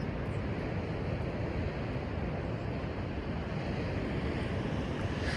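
Steady wind noise and sea surf, an even rushing with no distinct events.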